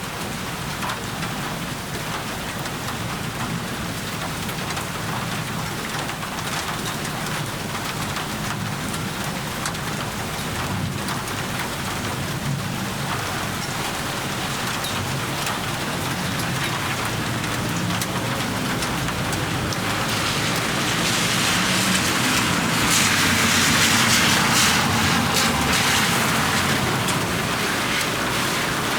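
Steady rain falling and pattering on surfaces, many small drops ticking, growing heavier for a few seconds about two-thirds of the way in before easing slightly.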